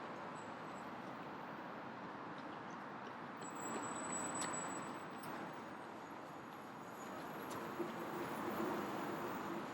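City street ambience: a steady wash of traffic noise, swelling a little about four seconds in and again near the end.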